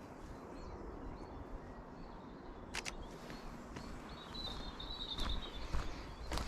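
A few footsteps on a path and a short, high warbling bird call about halfway through, over faint outdoor background noise.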